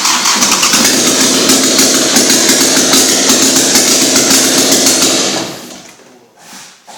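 Car engine running with a loud, rapid clatter, then winding down and stopping about five and a half seconds in.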